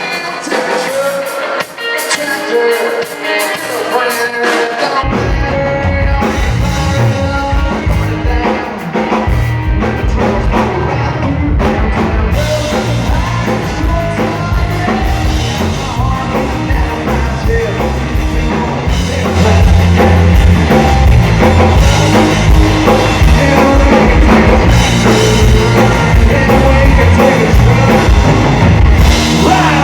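Country-rock song played by a band with a male singer. Bass and drums come in about five seconds in, and the music gets louder about two-thirds of the way through.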